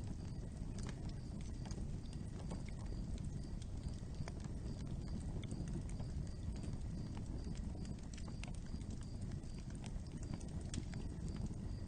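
Fire burning with a steady low rush and many irregular sharp crackles and pops.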